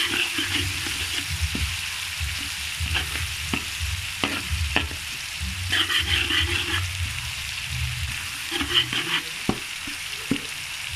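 Pounded chili and belacan paste sizzling in hot oil in a steel wok while a spatula stirs and scrapes it, with occasional sharp clicks of the spatula against the pan. The paste is being sautéed (tumis) until fully cooked and fragrant.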